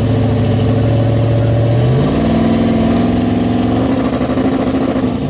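Car engine running at a steady low speed, then revved up about two seconds in and held at higher revs.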